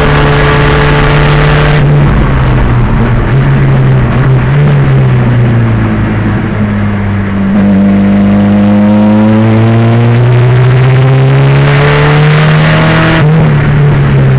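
1987 Pontiac Fiero race car's turbocharged 2.0-litre engine at full racing effort: its pitch falls over several seconds as the car slows, then climbs steadily for about six seconds under acceleration and drops abruptly near the end.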